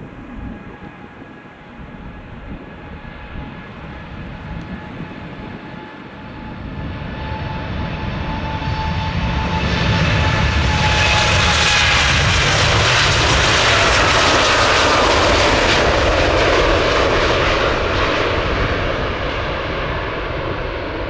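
Jet airliner passing close by: the engine noise builds over several seconds, peaks about halfway through, then fades, with a whine that drops in pitch as it goes past.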